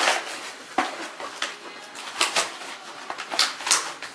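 Irregular clicks and crinkles of a toy train's packaging being opened and handled by hand.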